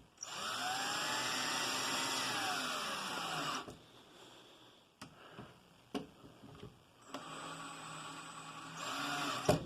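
A power drill running in two bursts of about three seconds each, its pitch rising and then falling within each burst, with a few light clicks between them. It is most likely driving a fastener through the caster bracket into the heater cabinet.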